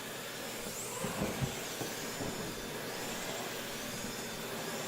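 Dyson Big Ball Multifloor canister vacuum running with a steady rushing hiss as its head is worked on a thick rug. Faint high whistles rise and fall as the suction changes, consistent with the air-release hook on the handle bleeding off air, and a few dull knocks come between about one and two and a half seconds in.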